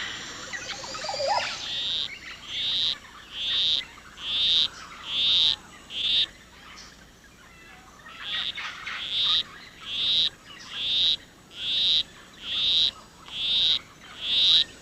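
Male poison arrow frog's courtship song: a monotonous series of short, high chirps repeated evenly, a little more than once a second, with a pause of about two seconds midway.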